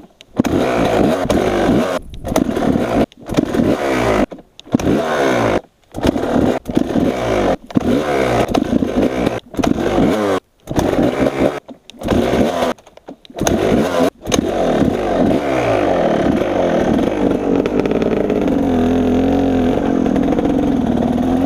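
Kawasaki KX 250 dirt bike engine running and being revved, its pitch rising and falling, in short bursts broken by abrupt cuts for the first part, then running without a break and revving for the last several seconds.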